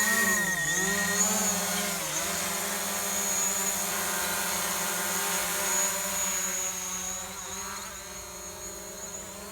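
DJI Mavic Pro quadcopter's propellers buzzing as it takes off. The pitch wavers up and down for the first two seconds, then settles into a steady hover tone that grows fainter over the last few seconds.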